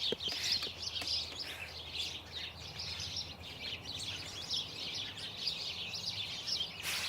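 A flock of small birds chirping together in a dense, continuous chorus of short, high chirps. A brief burst of hiss-like noise comes near the end.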